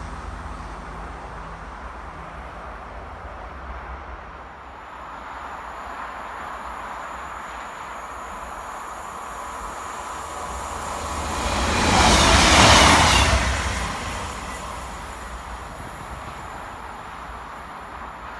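A Class 158 diesel multiple unit approaching and passing at speed: its rushing, rumbling noise swells to a single loud peak about two-thirds of the way through, then fades. At the start, the rumble of a departing Class 220 Voyager dies away.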